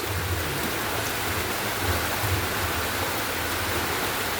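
Heavy rain falling steadily: an even, dense hiss, with a low rumble underneath.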